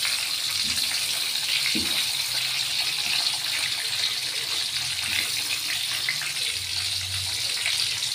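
Tomatoes, shallots and chillies frying in hot oil in a wok: a steady sizzling hiss with small crackles, the ingredients being fried for tomato sambal.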